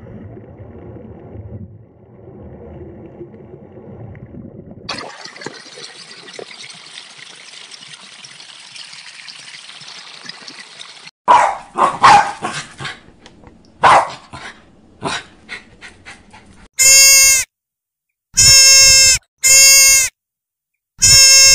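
A run of different animal calls. Near the end come four loud, steady-pitched calls, each lasting about half a second to a second.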